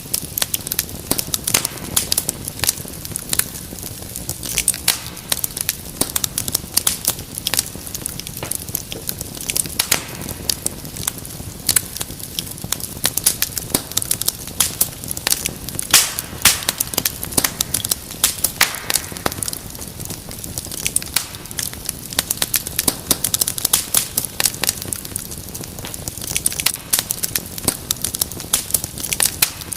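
Wood fire crackling in a fireplace: dense, irregular sharp pops and snaps over a steady low hiss of burning.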